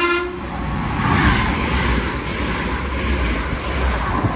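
TransPennine Express Class 802 express train running through the station at speed. The last moment of its horn blast cuts off right at the start, followed by the loud rush of the passing carriages over a steady low engine drone.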